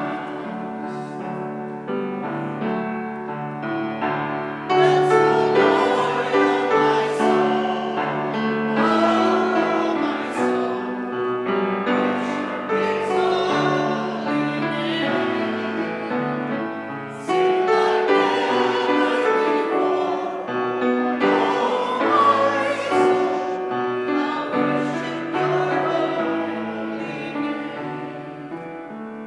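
Piano music with a voice singing over it, the singing wavering with vibrato and swelling louder twice.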